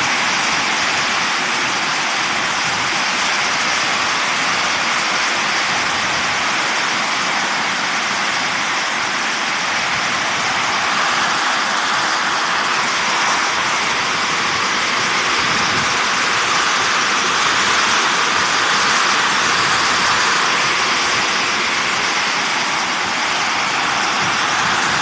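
Heavy rainstorm with strong wind: a loud, steady rush of pouring rain and wind.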